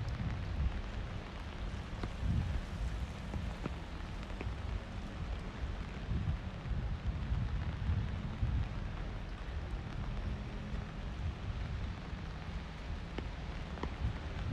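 Steady rain falling on the street, with scattered small drop ticks. Under it runs a low rumble of wind buffeting the microphone.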